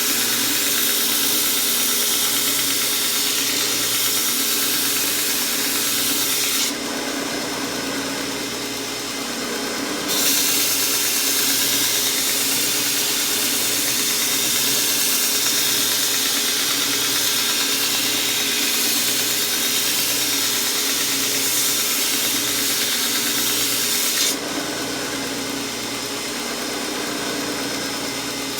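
Homemade 2x72-inch belt sander running steadily while a steel lawnmower blade is ground against its Orange Blaze abrasive belt, a loud hissing grind over the motor's hum. Twice the grinding drops away for a few seconds, about a third of the way in and again near the end, while the motor and belt keep running.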